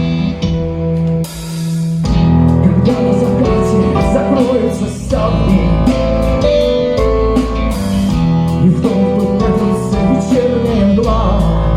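Live band music: electric and acoustic guitars over bass and drum kit playing an instrumental passage, with a melodic lead line that bends in pitch a few times.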